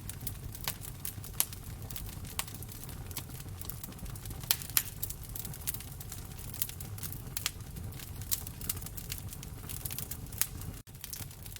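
Wood fire in a fireplace crackling, with irregular sharp pops and snaps over a low steady rumble of the flames. The sound cuts out for an instant near the end.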